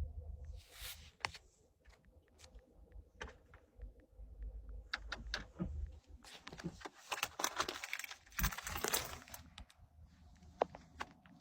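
Small clicks, taps and rustles of things being handled close to the microphone, jangling like keys, busiest for a few seconds in the second half, over an intermittent low rumble.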